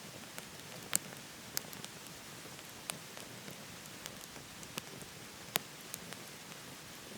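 Wood fire in a wood-burning stove crackling: sharp, irregular pops and snaps over a steady hiss, the loudest pop about five and a half seconds in.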